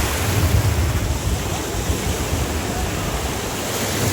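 Surf washing onto a beach, a steady hiss of waves, with wind buffeting the microphone as a low rumble in the first second or so.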